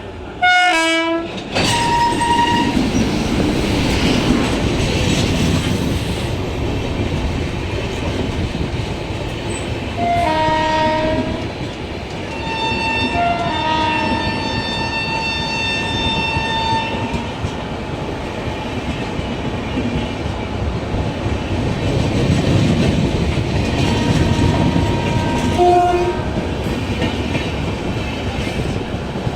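Indian Railways train running on the track, with continuous rumbling and wheel clatter. The locomotive horn sounds several times: a short blast at the start that drops in pitch, another about ten seconds in, a long blast a few seconds later, and a short one near the end.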